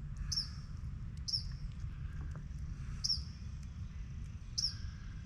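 A bird calling outdoors: short, high, downward-sweeping chirps repeated every one to two seconds over a steady low rumble.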